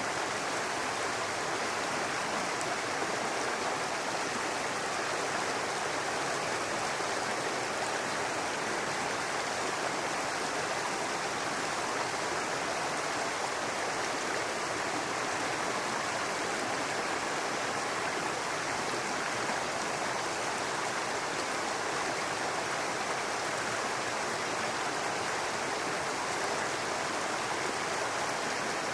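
Brook running over rocks, a steady babbling rush of water.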